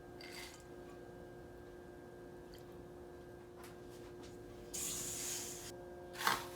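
Faint steady hum, with a few brief rustles, a hiss of about a second near the end, and a sharp clatter just before it stops.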